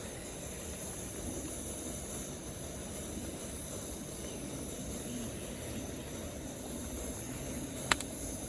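Gasoline camp stove burner running with a steady roaring hiss, and a single sharp click near the end.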